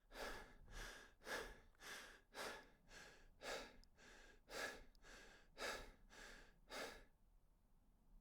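Faint, rhythmic breathing by a person, about two breaths a second, stopping shortly before the end.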